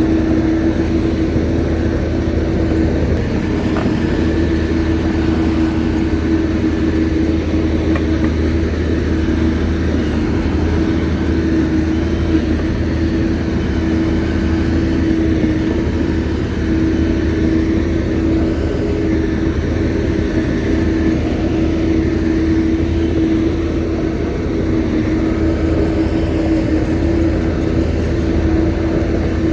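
Shantui bulldozer's diesel engine running steadily under work, with a constant low drone and a steady whine above it.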